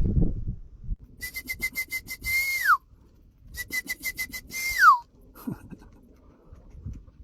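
Electronic beeping, played twice: each time a quick run of about six short, high beeps on one pitch, then a longer tone that slides down.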